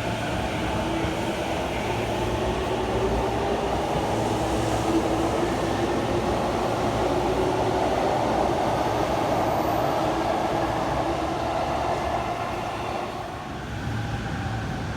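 Tozai Line subway train running alongside the platform: a steady rumble of wheels with the traction motors' whine gliding in pitch. It eases off near the end.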